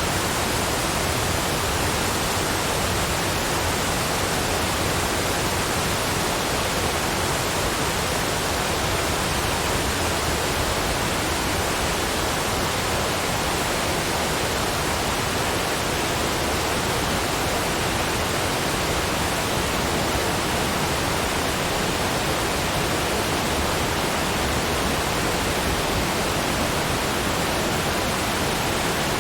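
Steady, unbroken rushing of water, like a waterfall, with no change in level.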